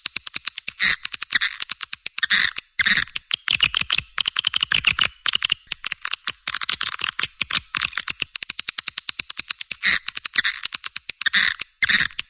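Swiftlet calls: a dense run of fast, high chirps and clicking twitters with short breaks, the kind of recorded swiftlet call played to draw swiftlets into a swiftlet house.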